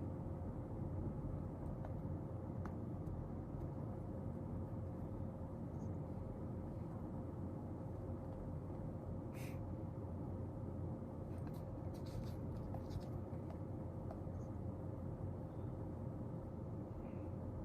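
A pen writing on paper in short, soft scratches, a few strokes near the middle and a small cluster a little later, over a steady background hum with a faint tone in it.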